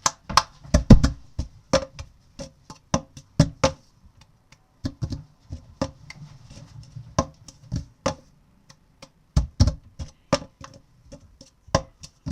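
Hand claps and a plastic cup knocked on a book in the cup-rhythm game: a run of sharp claps and knocks with short pauses.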